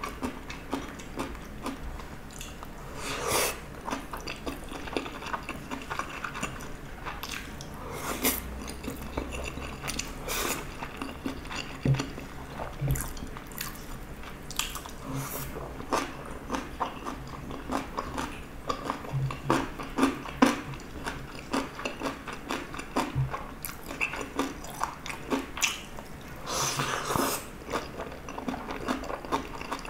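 Close-up eating sounds: a person chewing and biting spicy gopchang and seaweed rice balls, with many short, irregular wet mouth clicks and smacks.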